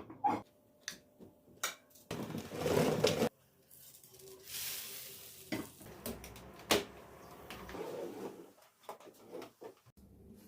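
Dishes and cutlery clinking and knocking as kitchen things are handled, with a dense rush of noise lasting about a second starting two seconds in, and a fainter hiss a little later.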